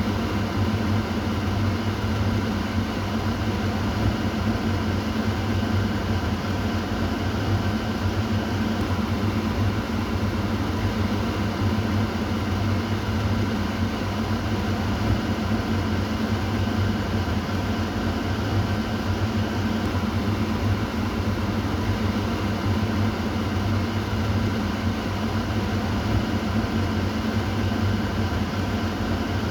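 Kitchen exhaust fan running steadily: an even whooshing of air over a low motor hum, with faint steady tones above it.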